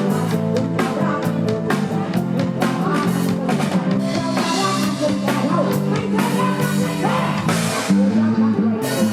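Live band music with a steady drum-kit beat and electric instruments, from an Isan-style concert.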